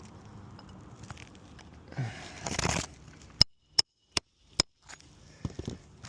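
Rustling scrape of shingles being worked, then four quick, evenly spaced hammer strikes on metal, each with a short metallic ring, as a roofing nail is tapped in under a shingle.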